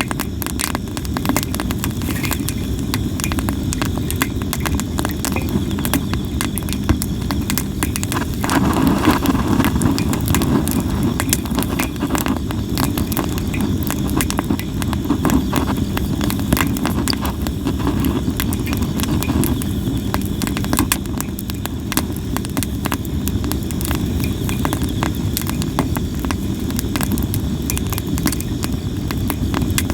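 Sawara cypress firewood burning, with constant irregular crackling and sharp pops over the low rush of the flames. The fire swells louder for about ten seconds from some eight seconds in.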